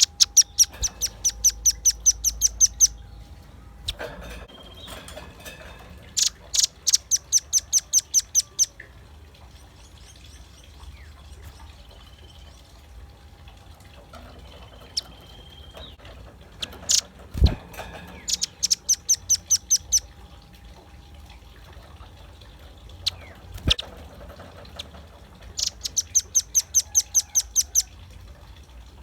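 Velvet-fronted nuthatch calling in four rapid bursts of sharp, high, evenly repeated notes, each burst two to three seconds long at about five or six notes a second. A sharp knock sounds about halfway through.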